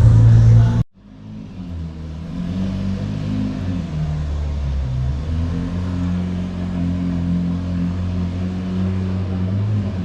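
Loud music cuts off suddenly about a second in, giving way to a car engine running with a steady low rumble whose pitch shifts a little now and then.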